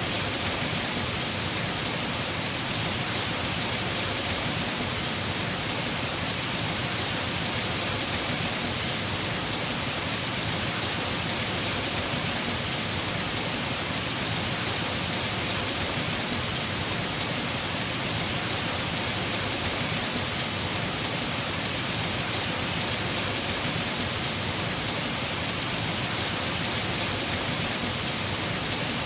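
Heavy rain falling on a house roof, a steady, even hiss.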